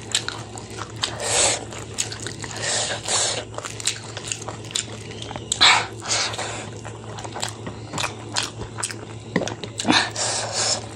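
Close-up wet chewing and lip smacking of a person eating rice and chicken curry by hand, in irregular short smacks and clicks, with fingers mixing the rice on the plate. A steady low hum runs underneath.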